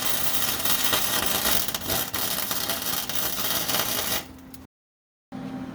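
Wire-feed welder arc crackling steadily as a weld bead is laid on the car's torque box, stopping abruptly about four seconds in as the trigger is released.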